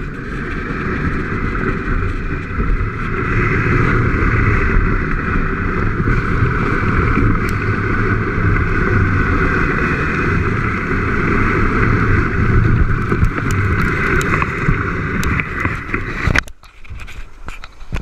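Volcano board sliding fast down loose volcanic gravel, a steady loud rushing scrape mixed with wind buffeting the microphone. About sixteen seconds in it cuts off abruptly as the board stops.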